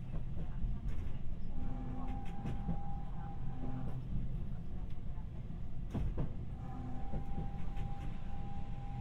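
Interior running sound of a Tokyu Setagaya Line 300 series light-rail car: a steady low rumble of wheels and running gear, with a steady whining tone that holds for a couple of seconds twice. A sharp knock comes about six seconds in.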